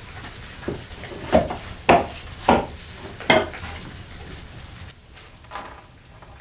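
Five sharp wooden knocks in a row, about half a second apart, over a steady background noise that drops about five seconds in.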